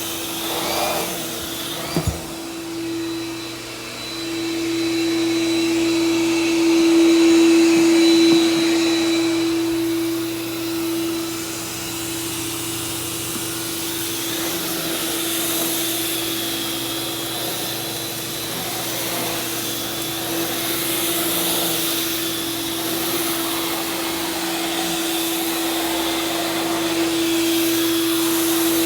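Vacuum cleaner running steadily as it is pushed over carpet to pick up dry soil, its motor holding one steady humming tone with rushing airflow. A sharp click about two seconds in, and the sound swells louder for a few seconds a little later.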